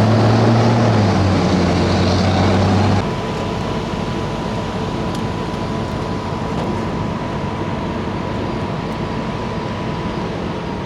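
Heavy vehicle engine running with a strong low hum that drops in pitch about a second in. About three seconds in it cuts off abruptly to a steady rushing noise with a faint steady whine.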